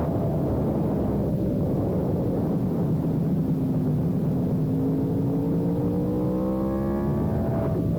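Sportbike engine under way, its pitch easing slightly and then climbing steadily for several seconds as it pulls through a gear, breaking off sharply near the end, over heavy wind rumble.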